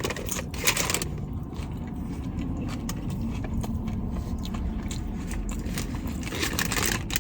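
Biting into and chewing a crunchy hard-shell chicken taco: a loud crackly crunch in the first second and another near the end, with small crunching clicks between, over a steady low hum.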